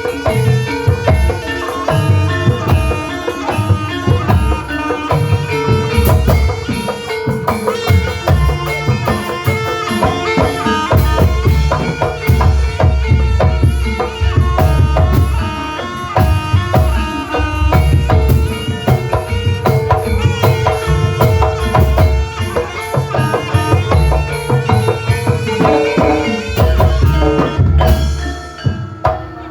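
Javanese gamelan music for an ebeg dance, with drum strokes beating a steady rhythm under struck keyed instruments playing a repeating melody. The music drops briefly in level near the end.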